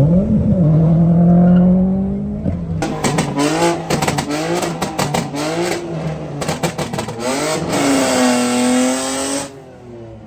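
Car engine revved hard, its pitch rising and falling. It holds high for a couple of seconds, then stutters with rapid cuts for several seconds. Near the end it holds a steady high note under a hissing noise before dropping away.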